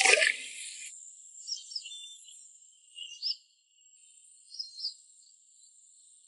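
A brief splash at the very start, then faint, high, short bird chirps in a few small groups over a steady thin hiss.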